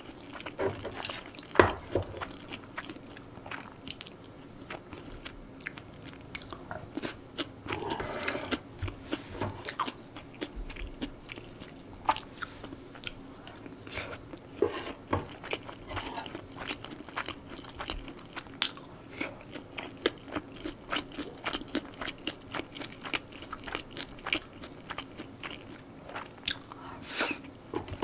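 Close-miked chewing as a person eats rice and stir-fried pork, with many short mouth clicks coming at irregular intervals.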